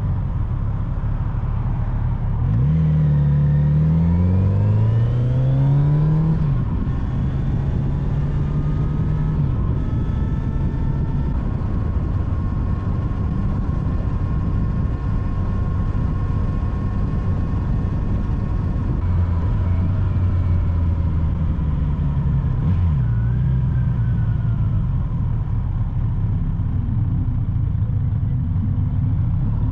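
Kawasaki Z900RS's inline-four engine pulling up through the gears. The engine note rises, drops at a shift and rises again, then runs at a steady cruise. Later it eases off, drops once more and picks back up. Heavy wind noise is heard under the engine throughout.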